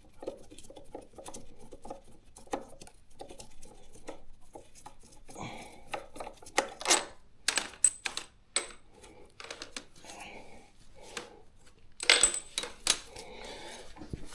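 Metal hand tools and parts clinking and tapping against each other in a series of irregular clicks, with a few louder metallic strikes that ring briefly, about halfway through and again near the end.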